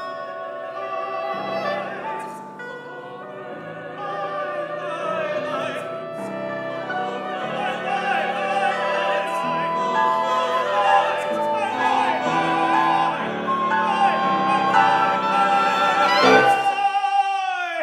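A mixed vocal quartet (soprano, mezzo-soprano, tenor and baritone) singing in overlapping held notes with a small chamber ensemble in a contemporary classical piece. The music grows louder, and several notes slide down in pitch near the end.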